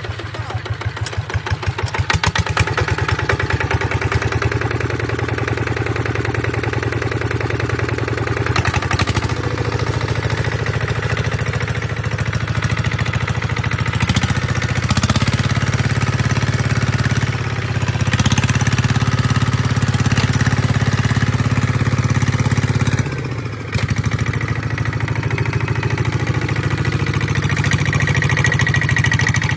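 Kubota ZT 150 single-cylinder diesel engine running steadily while the tractor plows a paddy field, easing off briefly about two-thirds of the way through before picking up again.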